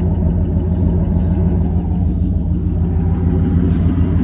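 1997 Ford F-350's 460 big-block V8 idling steadily, a low, even rumble. Its exhaust is open where the catalytic converter was cut off.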